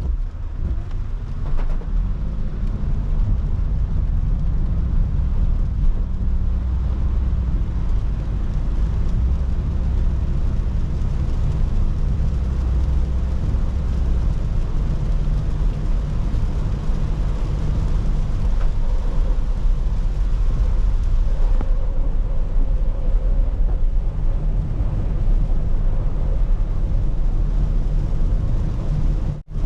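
Car driving in the rain, heard from inside: a steady low rumble of engine and road with an even hiss of wet tyres and rain. The sound cuts out for a moment near the end.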